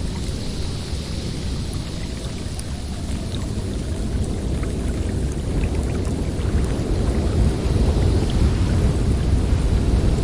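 Blizzard wind blowing in strong gusts, a deep rumble with a hiss of snow over it, getting louder about halfway through.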